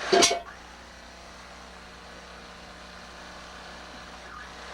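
A short, loud, sharp sound right at the start, then a steady low mechanical hum, engine-like, with no change in pitch.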